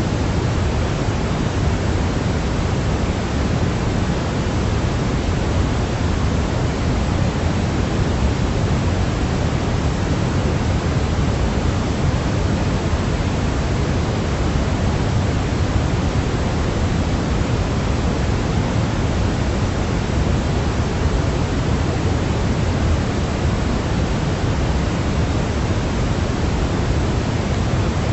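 Steady sleep-aid noise, an even hiss that never changes, heavier in the low end than in the highs.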